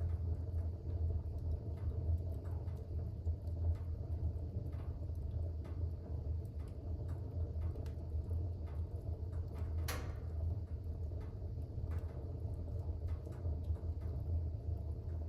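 Fire burning in a fireplace: a steady low rumble from the flames, with scattered small crackles and one sharp pop about ten seconds in.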